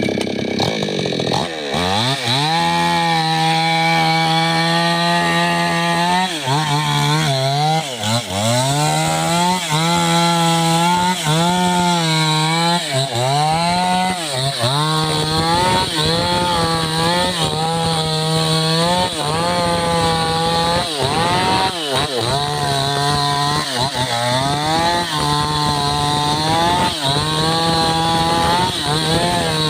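Two-stroke chainsaw cutting into a gmelina trunk. The engine revs up about a second and a half in, then keeps sagging and climbing back every second or two as it bogs under load in the cut.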